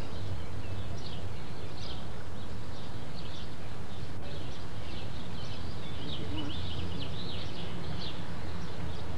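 Small birds chirping in many short, irregular chirps, over a steady low hum.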